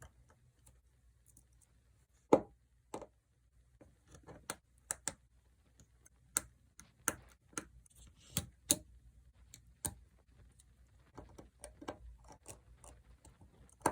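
Irregular small clicks and taps of tools and parts being handled while reassembling an iPhone SE, with one sharper click about two seconds in.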